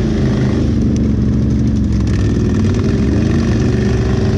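ATV (quad) engine running at a low, fairly steady speed, its pitch shifting only slightly.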